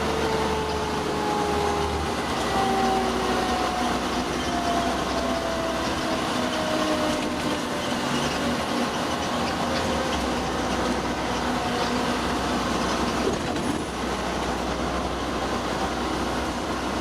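Fire engine on the move, heard from inside the cab: steady engine and road rumble, with a whine that falls slowly in pitch through the first half.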